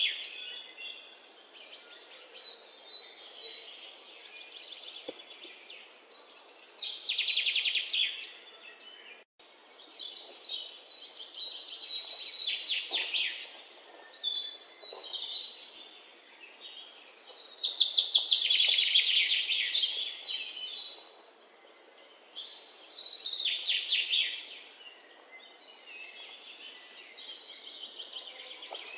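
Small birds singing: high, rapid trills in bursts of a few seconds, recurring every several seconds, with a few quick chirps in between.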